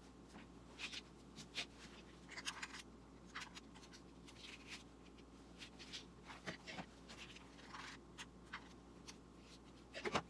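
Faint, irregular scratching and rustling from hands working small craft materials, in short strokes a fraction of a second apart, with a slightly louder pair of scrapes near the end.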